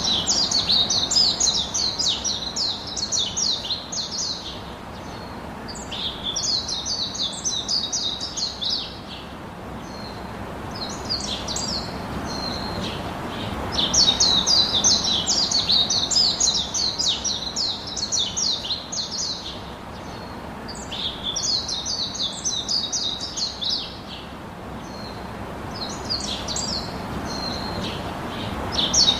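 Small songbirds chirping and twittering in quick high-pitched runs. The bouts last a few seconds each, with short pauses between, over a steady low background hiss.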